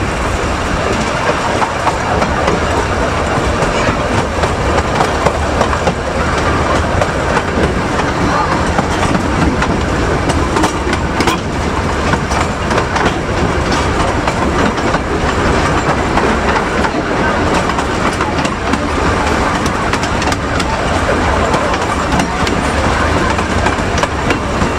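A 20-inch-gauge miniature railway train running along the track, heard from an open carriage window: a steady rumble of wheels on rails with occasional clicks.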